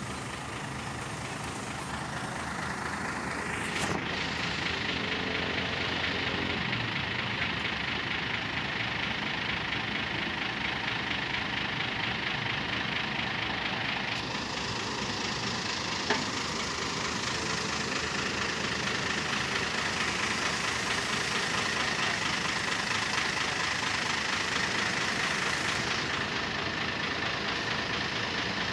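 A heavy vehicle engine running steadily, its sound getting fuller about four seconds in, with one sharp knock about halfway through.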